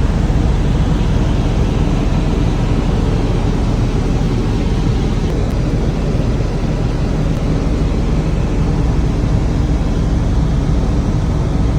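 Helicopter in flight, heard from aboard: the engine and rotor make a steady, loud, deep drone that does not change.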